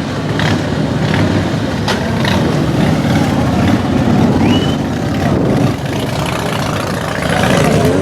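A motorcycle engine running loud and rough, its firing a dense low rattle, with a few sharp clicks over it.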